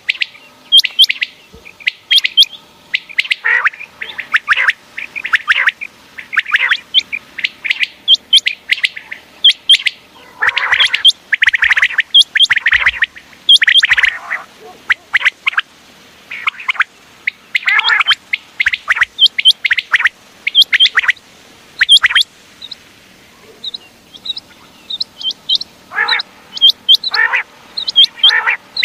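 Common quail calling continuously: many short, sharp, high calls in quick runs, mixed with fuller, lower notes, with brief gaps between clusters.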